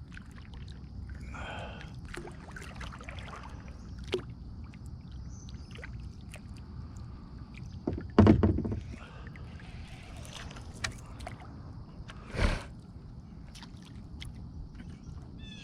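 A kayak being paddled backward: paddle strokes in the water against a steady low rumble. Scattered light clicks and two solid thumps, the loudest about eight seconds in and another about twelve and a half seconds in.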